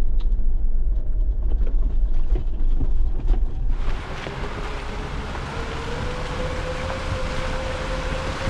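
Off-road vehicle on a trail: a low rumble with wind buffeting the microphone and scattered knocks. About four seconds in, it changes abruptly to a steady hiss with a single held whine.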